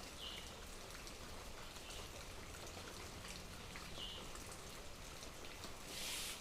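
Rain falling, with many separate drops ticking over a steady hiss that swells louder for a moment near the end.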